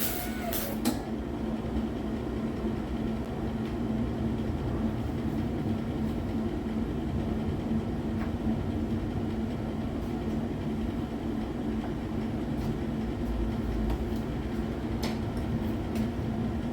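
Steady machine hum with a constant low tone over a rumbling noise, and a few faint clicks.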